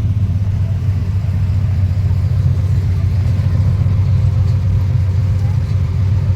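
Motor vehicle engine idling: a steady low rumble that holds even throughout.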